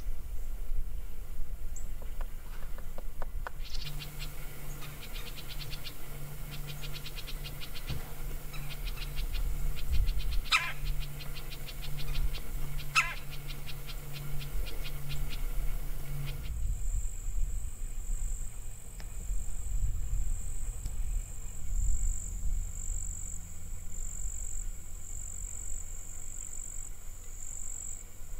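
Birds calling: bursts of a rapid rattling trill and two quick downward-swooping calls. From about two-thirds of the way in, a steady high-pitched insect buzz takes over.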